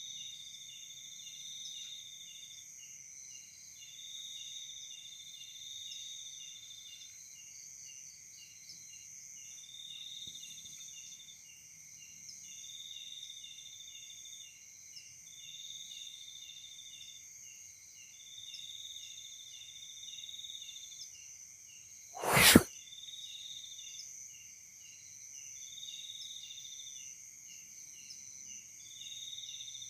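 Night insects such as crickets calling in a steady high chorus, one of them in phrases of a second or two with short gaps. About two-thirds of the way through there is a single sudden loud knock or bump, much louder than the insects.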